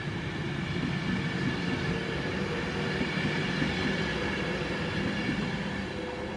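Class 390 Pendolino electric train pulling out of the station: a steady rumble of wheels on rail with a held hum from its electrics, easing off slightly near the end as it draws away.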